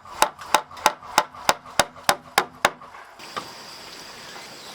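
A hammer striking wood in a steady run of about nine blows, roughly three a second, stopping about two-thirds of the way through.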